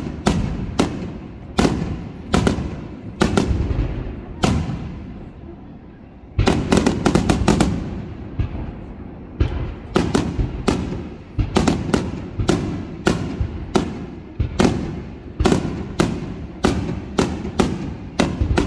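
Star mine fireworks finale: a rapid barrage of shells bursting in sharp, echoing bangs, one or two a second. After a brief lull, a tight cluster of bangs comes about six and a half seconds in.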